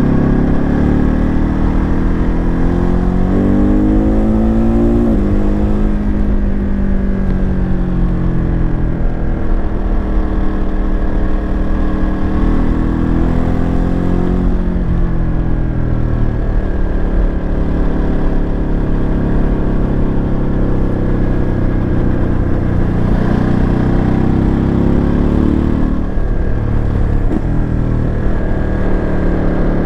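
Ducati Monster 937's 937 cc Testastretta L-twin engine under way. The revs climb for several seconds, then drop back sharply, several times over.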